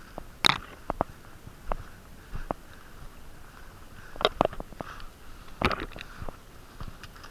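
Irregular sharp clicks and knocks, a few in quick clusters, over a soft recurring hiss of heavy breathing through a stuffy nose.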